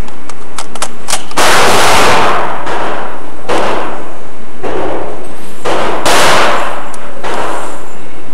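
A launcher being test-fired for the first time: a few sharp clicks, then a run of about seven loud shots roughly a second apart, each with a tail that fades over most of a second.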